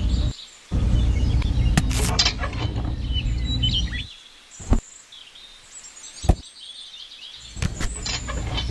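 A home-built tractor's small engine running with a low rumble, cutting out about four seconds in. Faint bird chirps and two sharp knocks follow, and the rumble comes back near the end.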